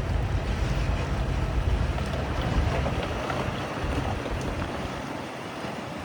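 Heavy earthmoving machine's diesel engine running, a low rumble under a noisy hiss that eases off about four seconds in.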